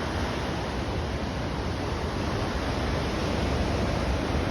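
Steady rushing of ocean surf mixed with wind on the microphone, an even hiss and low rumble.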